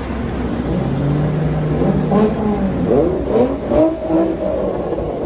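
Car engine at a car meet: a steady held note, then revved up and down several times in quick blips.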